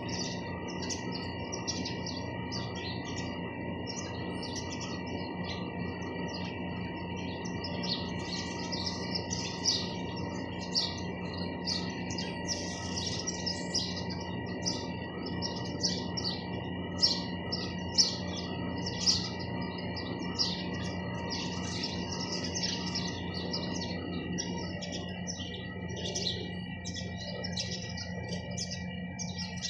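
A flock of house sparrows chirping in a continuous, busy chatter of short calls, a few standing out louder, over a steady background hum.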